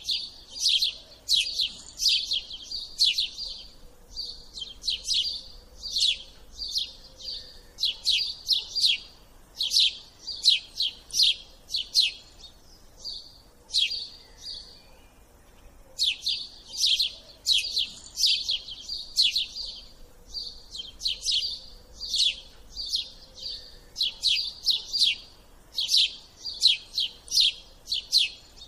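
Bird chirping in quick runs of short, sharp notes that fall in pitch, with a pause of a couple of seconds about halfway through.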